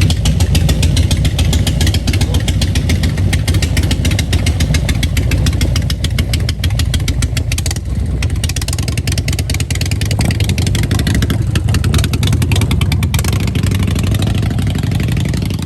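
A loud engine running steadily at idle, its exhaust pulses rapid and even.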